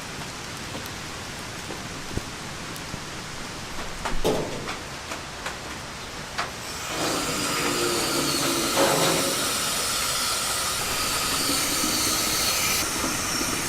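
Rain falling steadily, with scattered sharp drips. About seven seconds in, a louder steady hiss comes in and cuts off abruptly near the end.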